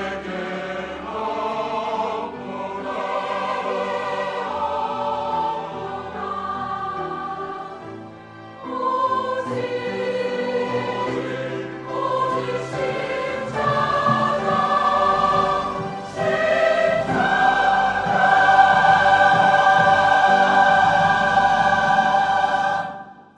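Church choir singing the closing bars of an anthem, ending on a long held final chord of about five seconds that stops just before the end.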